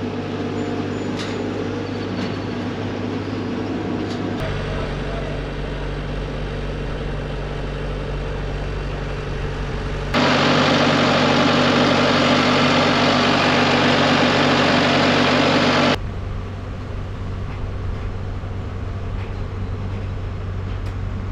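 Skid steer loader's diesel engine running steadily while it pulls a truck off a trailer on chains. For about six seconds in the middle it runs much louder and rougher, starting and stopping abruptly.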